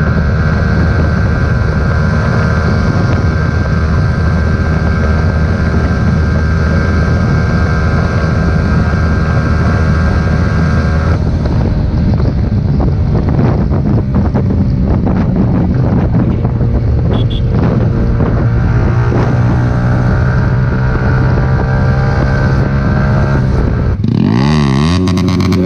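Motorcycle with a full aftermarket exhaust system running loud at a steady speed on the road, its pitch dropping about halfway through, then revving up and down in quick glides near the end.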